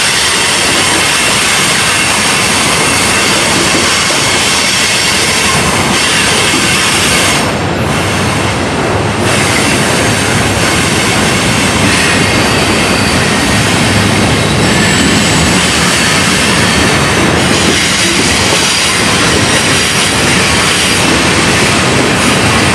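Railroad cars of a passing train rolling by, with steady rumble and steel wheels squealing in thin, high tones.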